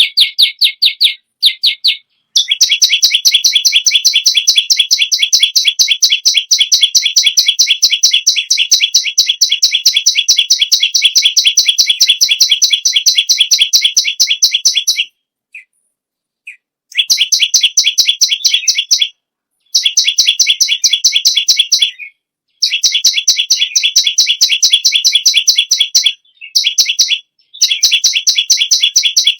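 Perenjak lumut singing: a rapid, even train of sharp repeated notes in long bursts, the longest running about twelve seconds, broken by brief pauses.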